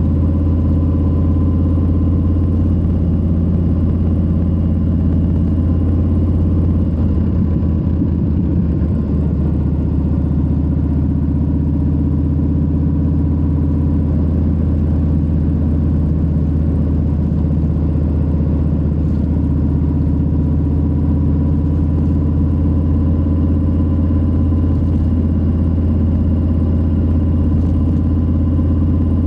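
Harley-Davidson Low Rider S's Milwaukee-Eight 117 V-twin running steadily at an even cruising pace, with no revving or gear changes.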